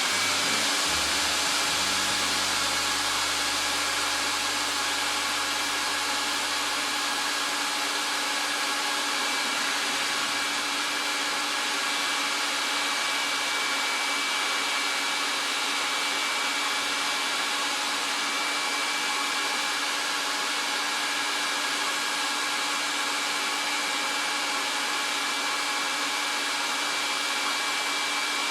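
Vacuum cleaner motor running at full speed on a rug, a steady loud rushing whine with a constant high tone.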